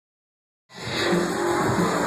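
Loud drum and bass from a live DJ set on a club sound system, starting abruptly after a moment of dead silence, with a repeating punchy beat and a steady bass line.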